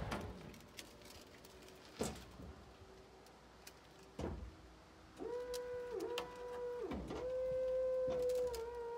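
A truck tail lift's electro-hydraulic pump motor starting up with a steady whine about five seconds in, after two sharp clicks. The whine sags in pitch twice, briefly, before running on steadily.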